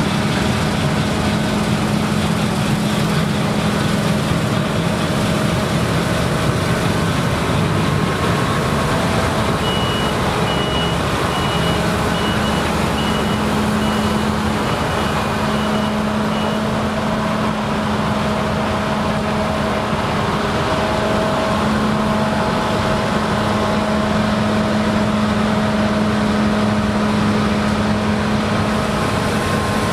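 Claas Lexion combine harvester running steadily under load while harvesting rye, a constant engine hum under the threshing noise. From about ten seconds in, a series of short, high-pitched beeps from a machine's warning alarm sounds for about seven seconds.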